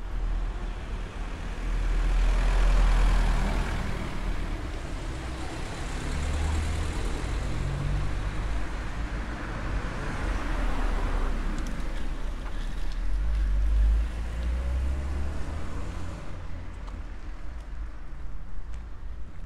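Road traffic: vehicles passing close by, their engine and tyre noise swelling and fading several times over a deep rumble, then easing off near the end.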